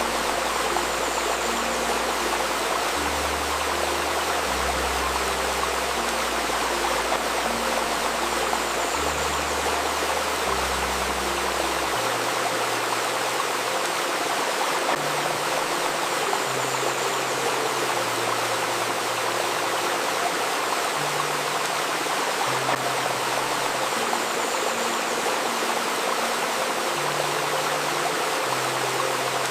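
Babbling river stream, a steady rush of flowing water, with soft held low notes of an ambient healing-music pad changing slowly underneath; the deepest notes drop away about twelve seconds in.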